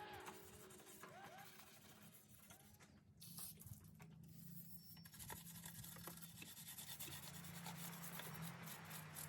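Faint scrubbing and rubbing of a bristle brush on soapy engine-bay parts, with a low steady hum underneath. A few chiming music notes fade out in the first second or so.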